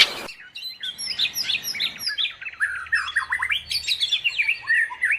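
Sparrows chirping: a busy run of quick, overlapping short chirps.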